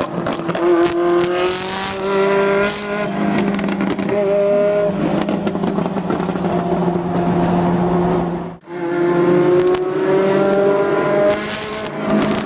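Turbocharged sports car engine at high revs under hard acceleration, its pitch climbing steadily. About two-thirds in the sound cuts out for an instant, then the engine climbs again.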